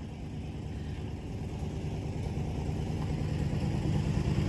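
Low rumble of a motor vehicle's engine, growing steadily louder as it comes closer.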